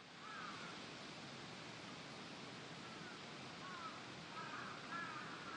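Faint birds calling: short, repeated chirping calls over a steady background hiss.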